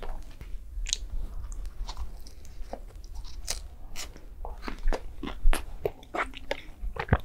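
Close-miked chewing of crispy fast food: irregular crunches, crackles and mouth clicks as a mouthful is bitten and chewed.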